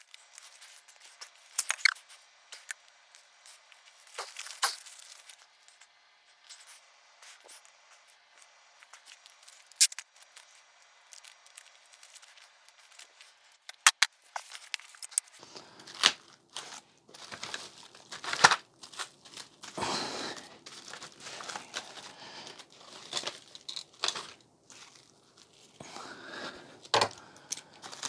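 Salvaged TV circuit boards being handled and bundled: scattered sharp clicks and knocks at first, then from about halfway, denser rustling and crinkling of wrapping.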